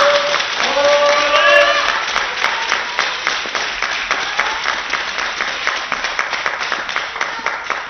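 Spectators shouting a cheer for about two seconds, then clapping in unison in a fast, even rhythm that slowly fades.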